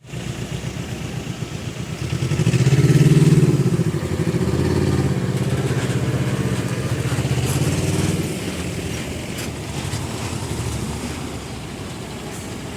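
A motor vehicle engine running with an even pulsing beat. It grows louder about two seconds in, peaks briefly, then settles to a steady, slightly quieter running.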